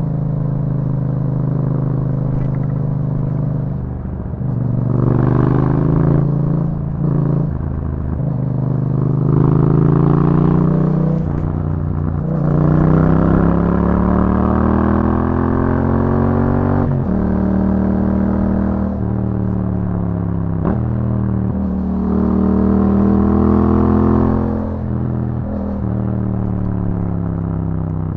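Yamaha MT-07 parallel-twin engine through an aftermarket Akrapovič exhaust, pulling hard as the motorcycle rides. The engine note climbs repeatedly and drops sharply at each gear change or throttle lift, about every four seconds.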